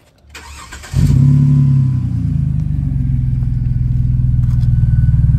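Jeep Liberty (KJ) engine starting about a second in and settling into a steady idle. Its exhaust runs through two small add-on silencer boxes taken from an Audi RS4 Avant, fitted to give a solid, not overly loud tone without cabin drone.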